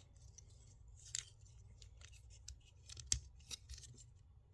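Plastic parts of a Transformers action figure clicking and scraping as they are unpegged and moved during transformation: a string of small sharp clicks, a brief scrape about a second in, and a louder snap about three seconds in.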